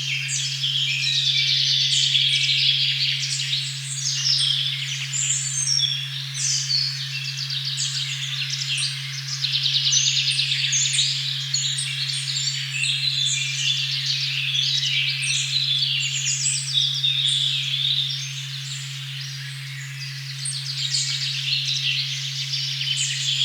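A steady pure 136.1 Hz tone hums beneath a dense chorus of forest birds chirping and trilling. The birdsong thins out for a few seconds near the end while the tone holds unchanged.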